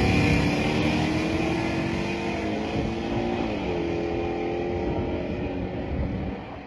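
A race truck's engine running, its pitch slowly falling and its sound gradually fading.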